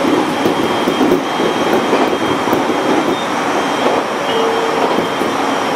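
Electric multiple-unit train of the 701 series running at speed: a steady rumble of wheels on rail heard from inside the car, with a brief held tone about four seconds in.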